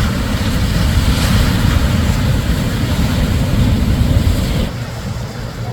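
Shorebreak wave crashing and rushing up the beach, a loud wash of noise with a deep rumble that eases off near the end.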